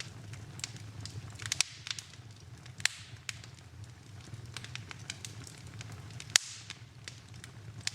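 Fire burning in a fireplace, crackling with irregular sharp pops over a low steady rumble; the loudest pop comes about six seconds in.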